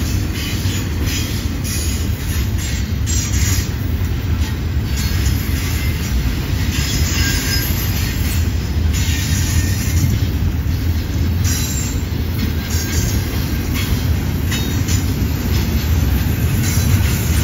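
Double-stack container well cars of a freight train rolling past on a curve: a steady low rumble of wheels on the rails, with high-pitched hissing from the wheels that comes and goes.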